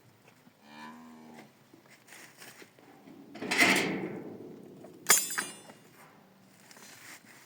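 A farm animal gives a short call of about a second, near the start. Later comes a louder rushing noise, then a sharp knock about five seconds in, which is the loudest sound.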